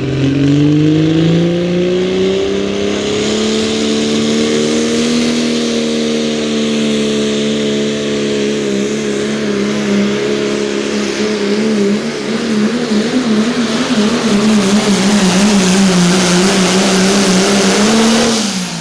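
Limited Pro Diesel pulling truck's turbocharged diesel engine at full throttle hauling the sled: the revs climb over the first few seconds, then hold and slowly sag under the load, wavering in pitch over the last several seconds, and the note drops away sharply near the end as the throttle is cut at the end of the pull.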